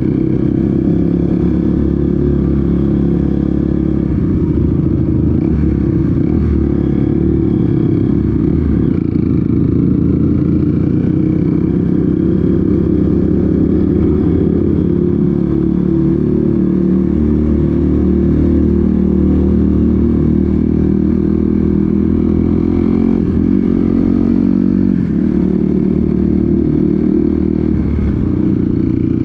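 Off-road motorcycle engine running steadily while riding on a trail. Its pitch rises and falls a little with the throttle.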